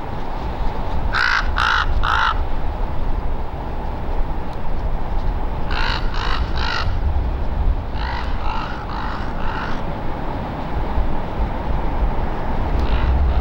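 Crow cawing in short runs: three caws, then three more, then four, over a steady low background rumble.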